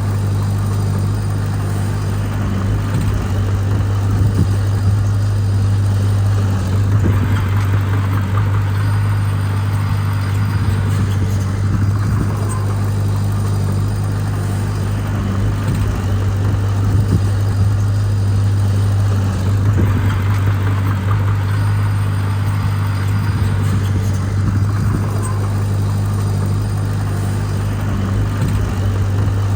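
Diesel engine of heavy earthmoving equipment running at a steady, constant pitch, with two stretches of louder mid-range clatter, about a third of the way in and again about two-thirds in.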